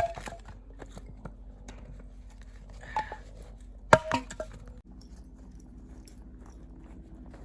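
A few sharp knocks and clicks, the loudest about four seconds in with a brief ringing tone after it, over a low steady background.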